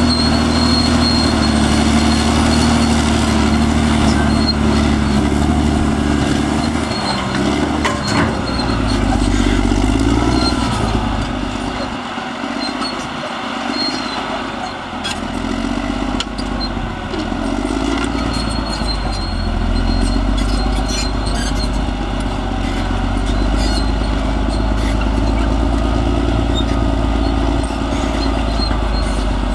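Caterpillar D6R XL bulldozer's diesel engine running under varying load, its pitch shifting as the machine works, with scattered sharp clicks. The sound eases briefly a little under halfway through, then picks up again.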